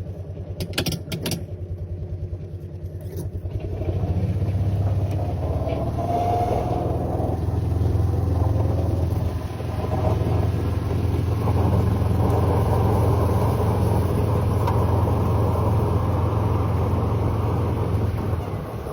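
Side-by-side UTV engine running as it drives off, with a few clicks at the start. The steady low drone grows louder about four seconds in as it picks up speed, with a brief rising whine around six seconds in.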